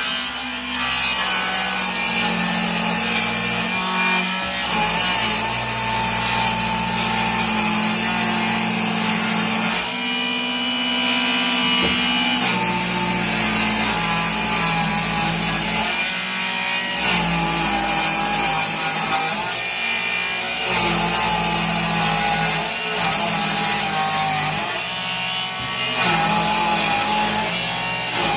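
Electric power saw cutting into pressure-treated lumber with its blade set half an inch deep, making kerf passes to clear a notch. The saw runs loud and steady, easing off briefly several times between passes.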